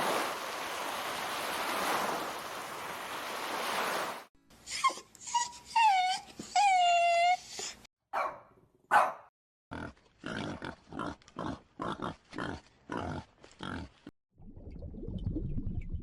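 A sequence of animal sounds: about four seconds of rough noise, then several whining cries that fall in pitch, then a run of short, rapid huffs about two or three a second, and a low rumbling noise near the end.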